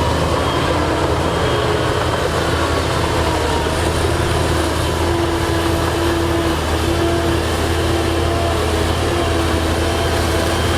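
Diesel engine of heavy earthmoving machinery running steadily at an even speed, with a constant low hum.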